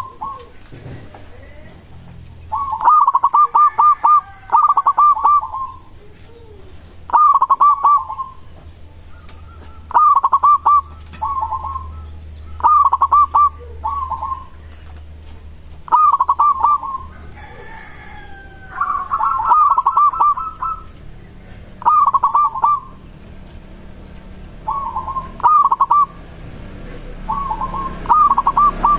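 Zebra dove (perkutut) cooing: repeated phrases of rapid, soft staccato coo notes, one phrase every two to three seconds.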